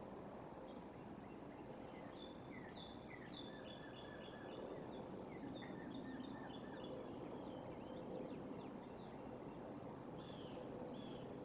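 Bald eagle calling: a run of quick, high, falling chirps and short whistled notes, over a steady outdoor background hum.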